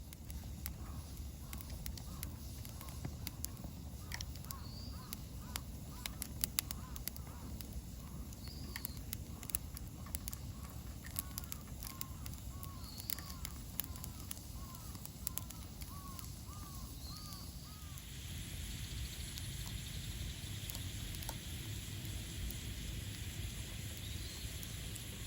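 Wood campfire crackling with sharp pops, over a steady low rumble, while birds call repeatedly in short, quick arcs with occasional higher chirps. About two-thirds of the way through, a steady hiss comes in and stays.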